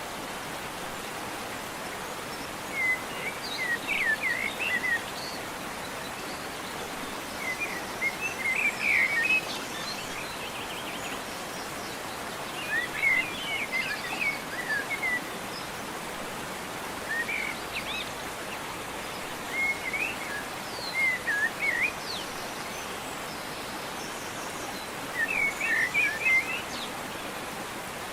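Steady rush of a waterfall with songbirds singing over it in short bursts of chirps every few seconds.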